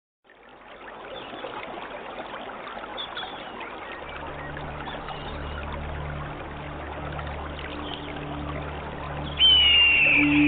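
Trickling stream water with faint bird chirps fades in. About four seconds in, a low steady musical drone joins it. Near the end, a loud high held note begins the music.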